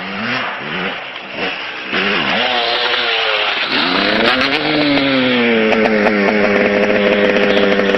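Motocross bike engine revving up and down in quick blips, then climbing about four seconds in and holding at a steady high rev.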